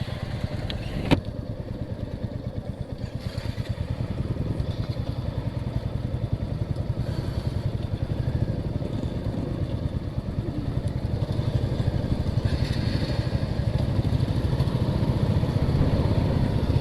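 Motorcycle engine running steadily under way, its rapid firing pulses dense and low, with one sharp click about a second in.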